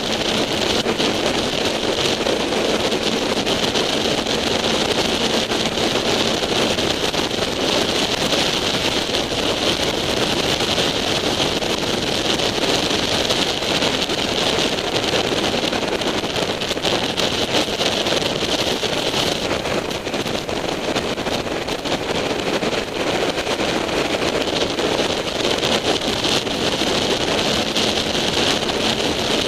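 Steady wind rush over a sportbike's onboard camera at road speed, mixed with motorcycle and road noise. A faint steady hum sits underneath.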